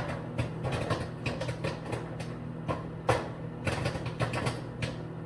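Microwave popcorn popping fast inside its bag: many sharp, irregular pops, several a second, the loudest about three seconds in. Under them is the steady hum of the running Samsung microwave.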